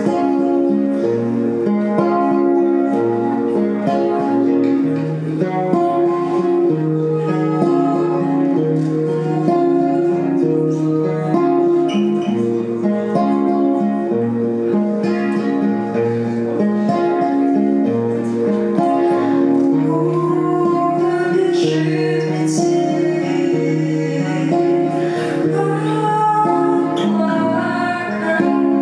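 Acoustic guitar played live, a steady picked pattern of ringing notes accompanying a song.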